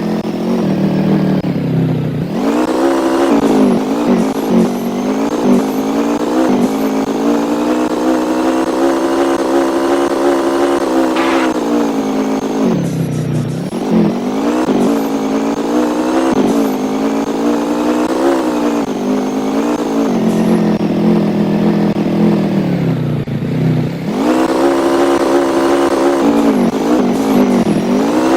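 A motor vehicle's engine running under load. Its pitch drops sharply and climbs back up three times: about two seconds in, about halfway, and near the end.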